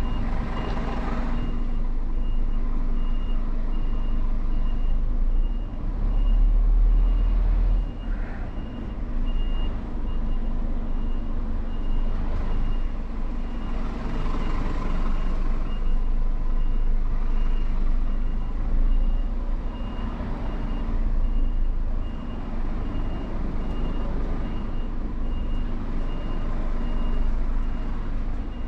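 Lorry's reversing alarm beeping steadily at about two beeps a second over the truck's engine running at low speed. The engine rumble swells for a couple of seconds about six seconds in.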